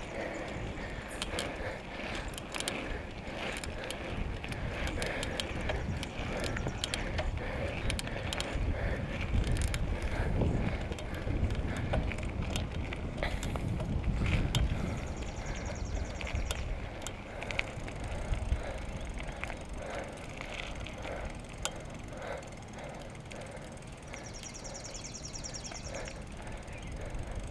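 Bicycle freewheel ticking irregularly as the rider coasts, over a steady low rumble of riding.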